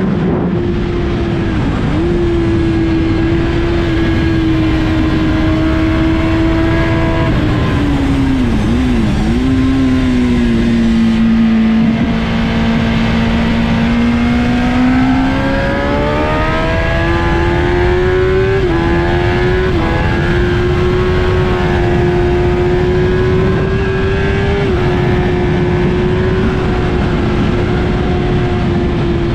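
A 2007 Kawasaki ZX-10R's inline-four engine at racing speed, heard onboard with a heavy rush of wind. The engine note holds high, then drops with quick blips about eight seconds in as the rider shifts down. It runs lower for several seconds, climbs steadily with two quick upshifts, and holds at a high, even pitch near the end at full speed.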